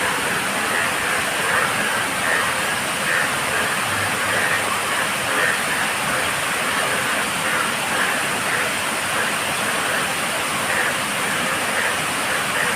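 Steady heavy rain with frogs calling through it, many short repeated calls overlapping in a continuous chorus.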